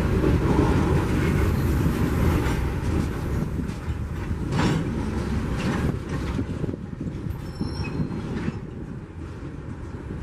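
A train rolling past: a steady rumble of wheels on rail with a few sharp clacks in the middle, slowly fading as it moves away.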